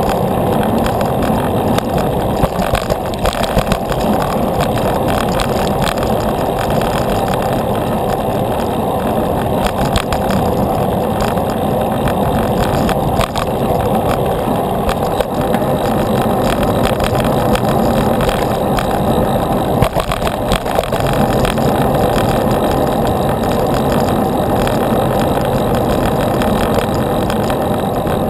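Steady rushing wind and road noise picked up by a camera riding along on a moving bicycle, with small irregular crackles throughout.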